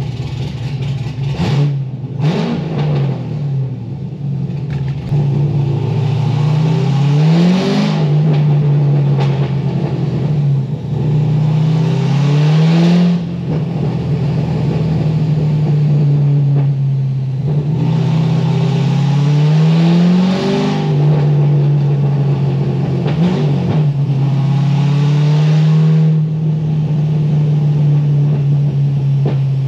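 C6 Corvette Z06's LS7 V8, straight-piped through a titanium catback with no mufflers, running on a chassis dyno and ridiculously loud. The engine climbs in pitch several times in short rises, each followed by a stretch held at a steady speed, as the car is brought up through the gears.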